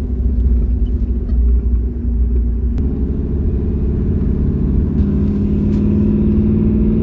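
Car engine and road rumble while driving, with a steady deep rumble underneath. The engine note shifts about three seconds in and again about five seconds in.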